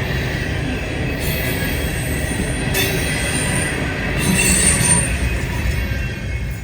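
Freight train rolling past: a steady rumble of railcars with steel wheels squealing on the rails, the high squeal coming and going in spells and peaking about four and a half seconds in.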